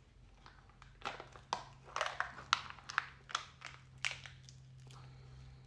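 Irregular crinkling clicks and taps from a small plastic container of dried chopped parsley being opened and emptied over the meat mixture, densest in the middle, over a low steady hum.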